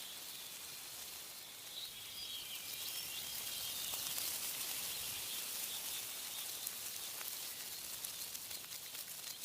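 Wind rustling through tree leaves, swelling into a gust a couple of seconds in and easing off, with small birds chirping faintly now and then.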